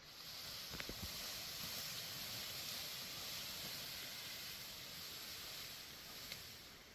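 A steady high hiss, with a couple of faint knocks about a second in.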